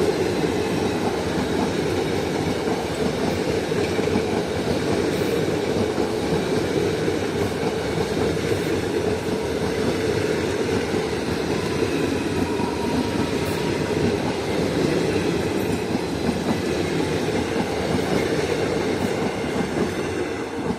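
Passenger coaches of an Indian Railways express train rolling past close by: a steady, loud rumble and rattle of steel wheels on the rails. It fades at the very end as the last coaches go by.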